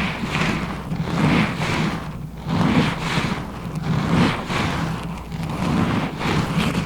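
Close-up rubbing and scratching on a sensitive ASMR microphone, in repeated strokes that swell and fade about once a second.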